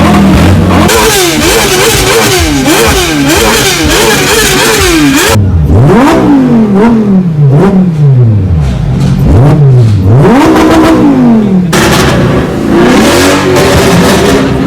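Supercar engines revved hard again and again, the pitch rising and falling with each blip of the throttle. Several cars follow one another, with abrupt cuts about a second, five seconds and twelve seconds in.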